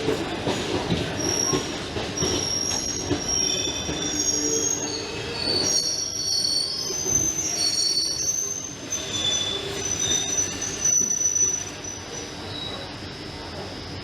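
Train's steel wheels squealing against the rails: many short, high squeals at shifting pitches over the rumble of the moving train. The squealing and rumble die down about twelve seconds in.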